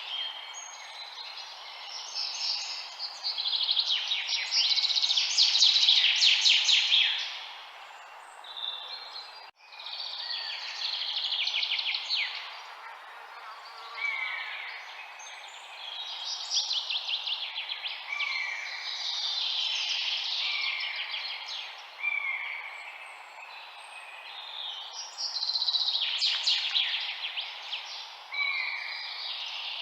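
Songbirds singing in repeated phrases of fast trills and short falling whistles over a steady background hiss.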